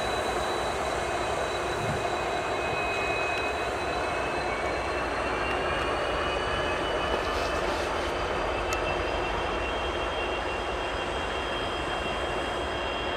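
Freight train led by two rebuilt CSX diesel locomotives, a CM44AH and an SD70AC, passing under power: a steady engine drone and rumble with faint high whines, one slowly rising in pitch. A few sharp wheel clicks come in the second half as the freight cars follow.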